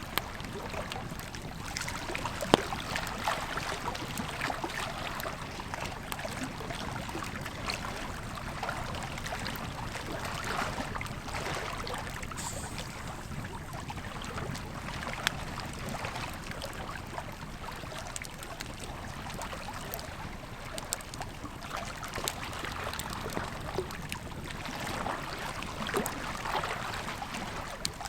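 Campfire crackling and popping with irregular sharp snaps, a loud pop about two and a half seconds in, over the steady rush and trickle of a flowing river.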